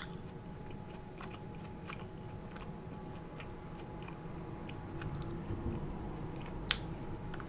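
A person chewing a bite of soft-crusted pizza with the mouth close to the microphone: faint, irregular small mouth clicks, one slightly sharper near the end.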